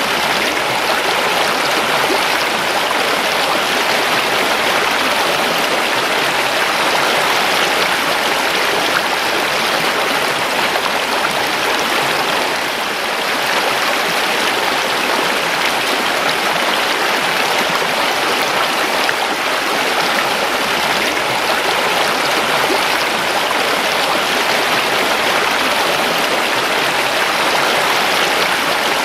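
A creek's water rushing and babbling over stones, a steady full rush of flowing water.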